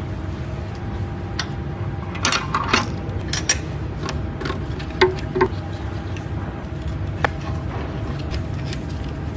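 Scattered sharp metallic clicks and clinks of hand tools and engine parts being handled during assembly of a Mercedes-AMG V8 engine, over a steady low hum. The clicks bunch together about two to three seconds in, and two short ringing clinks come about five seconds in.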